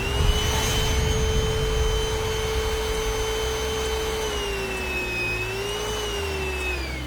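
ROOMIE TEC cordless stick vacuum cleaner's motor running with a steady high whine. Its pitch sags and recovers about two-thirds of the way through, then falls near the end.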